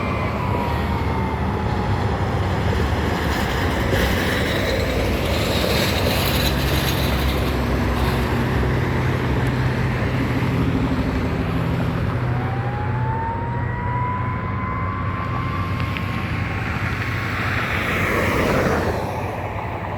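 Fire engine responding: its siren slides down in pitch at the start, then winds up again about twelve seconds in, over the steady drone of its engine and road noise. The sound swells just before the end and then fades.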